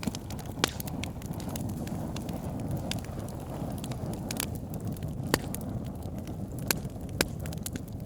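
Wood fire burning: a steady low rush of flames with sharp crackles and pops from the logs, about six clear pops, the loudest a little past halfway.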